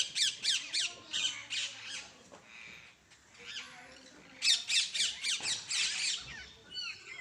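A bird calling: quick runs of short, high, falling squawks, about three a second, in two bouts with a pause between.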